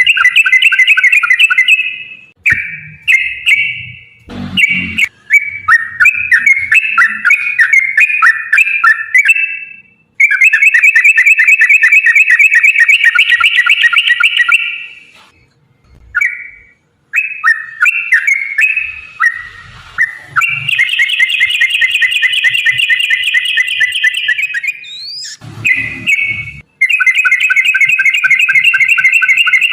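Yellow-vented bulbul (trucukan) singing long, fast, chattering trills of repeated notes, phrase after phrase with short breaks: the 'ropel panjang' lure song used to make other bulbuls sing back. A few brief clicks and thumps fall between the phrases.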